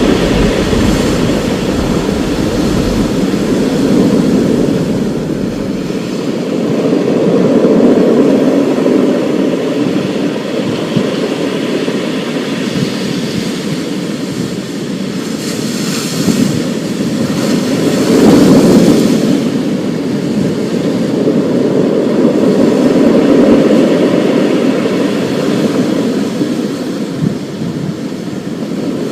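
Thunderstorm: a steady rushing wash of rain and wind that swells and fades every few seconds, with low thunder rumbling through the first few seconds and a louder rumbling swell about eighteen seconds in.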